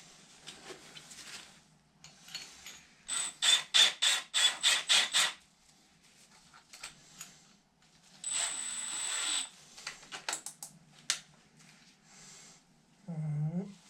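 Small drill run in a quick series of short bursts, then once for about a second and a half, drilling out old anchors in the wall. Scattered clicks and knocks follow.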